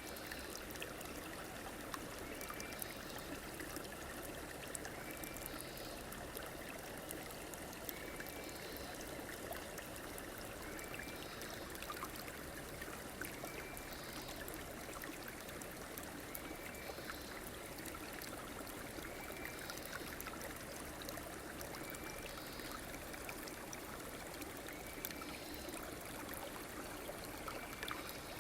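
A stream flowing steadily. A short high call repeats about every two seconds over the water.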